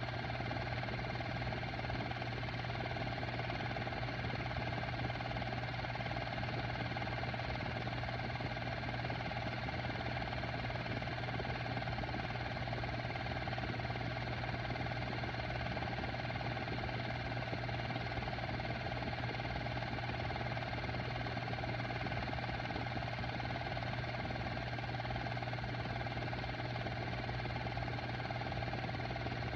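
Technicolor model 810 cartridge film projector running: a steady mechanical hum with a strong low drone and a whir of steady higher tones.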